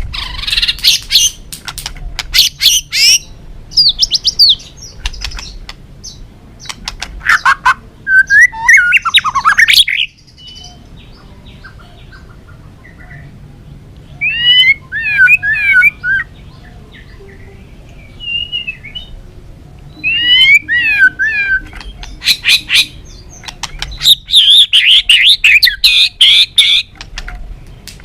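White-rumped shama singing: rapid runs of sharp clicking chatter alternating with loud whistled phrases that swoop up and down, with a quieter pause a little before the middle.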